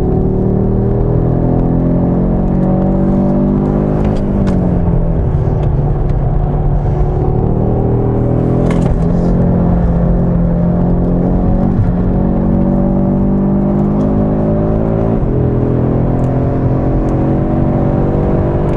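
Audi RS3's turbocharged 2.5-litre five-cylinder engine under hard acceleration, heard from inside the cabin. Its pitch climbs steadily and then breaks off and drops, several times, as the seven-speed dual-clutch gearbox shifts.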